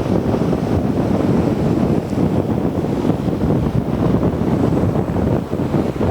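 Strong wind buffeting the microphone, a low gusty rush, with ocean surf breaking behind it.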